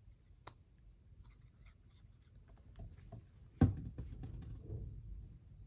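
Paper pieces and craft tools being handled on a work surface: light rustles and small scattered clicks, with one sharp click about half a second in and a louder knock about three and a half seconds in.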